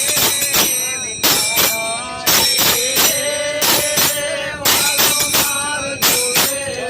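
Devotional bhajan music: a voice singing over loud, regular hand-percussion strikes with jingles, about three strikes a second.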